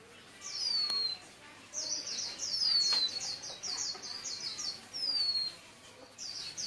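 Songbird singing: high-pitched whistled notes that slide downward, about every two seconds, with fast runs of short chirps between them.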